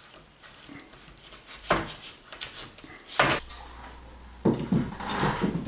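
Knocks and clattering of tongue-and-groove pine boards being handled and fitted into place: two single knocks, then a quicker run of knocks and rattles near the end.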